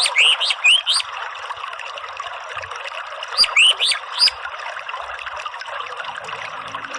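Steady trickling water, with a bird giving two quick series of short rising chirps: one at the start and another a few seconds in.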